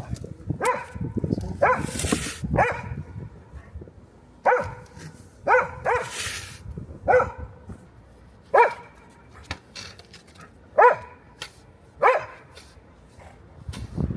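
A dog barking repeatedly: about ten single short barks, roughly one a second, with gaps that widen toward the end. Two brief hissing noises come between the barks.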